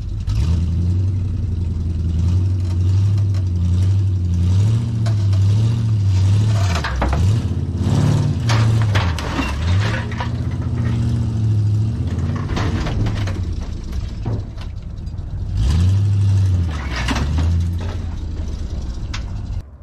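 Truck engine running, its pitch rising and falling repeatedly as it is revved and eased off, with several sharp metal knocks and clanks.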